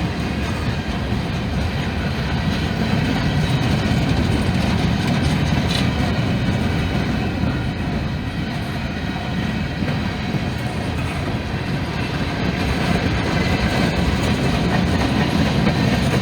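Norfolk Southern freight train rolling past, a steady noise of its wheels running over the rails that swells slightly and eases off.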